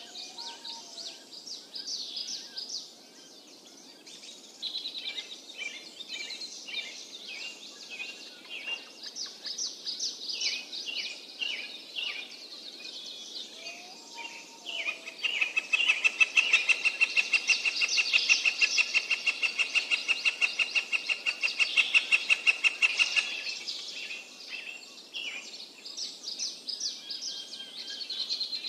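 Birds chirping and calling throughout. About halfway through, a louder, fast-pulsed trill at a steady pitch runs for about eight seconds, then stops.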